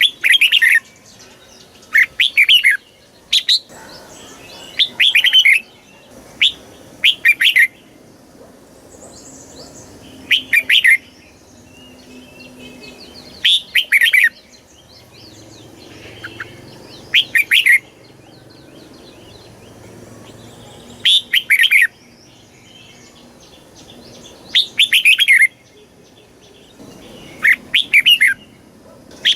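Red-whiskered bulbul singing: about a dozen short, loud whistled phrases, each under a second, coming every two to three seconds, with faint high chirping between them.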